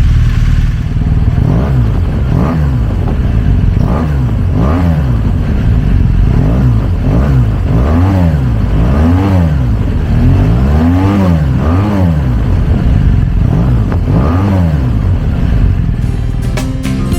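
BMW R1200GS flat-twin (boxer) engine revved in a series of short throttle blips, about a dozen, the pitch climbing and falling back to idle each time.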